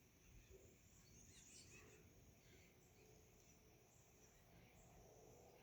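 Near silence with faint outdoor ambience: a steady high-pitched insect-like hiss, with a few faint bird chirps about a second and a half in.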